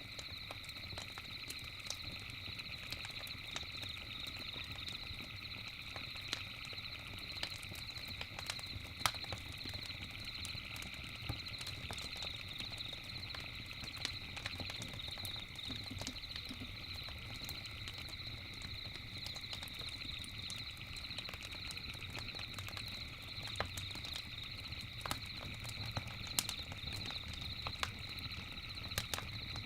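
A campfire crackling, with irregular sharp pops scattered throughout, over a low steady rumble. Behind it runs a continuous high-pitched night chorus, an unbroken buzzing drone.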